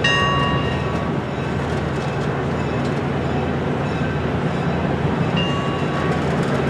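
Train running, with a steady low rumble and brief high ringing tones near the start and again near the end.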